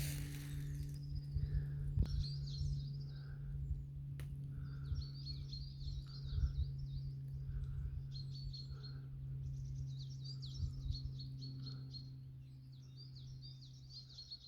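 Small songbirds singing in woodland: bursts of quick, high chirping phrases every second or two, over a low steady hum.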